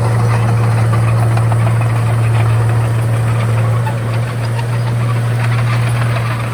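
Komatsu D31A bulldozer's diesel engine running steadily, with a strong low drone that dips briefly about four seconds in.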